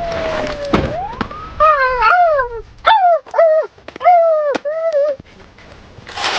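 A noisy rustle, then a rising swoop followed by a string of short siren-like wails, each swooping up and falling back.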